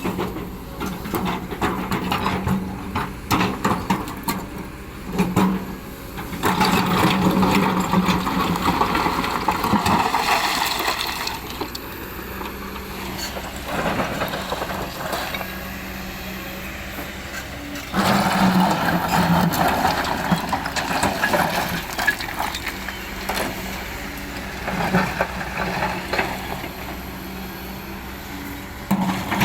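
Hydraulic excavator's diesel engine running steadily, growing louder for several seconds twice, about six seconds in and again about eighteen seconds in, with scattered knocks.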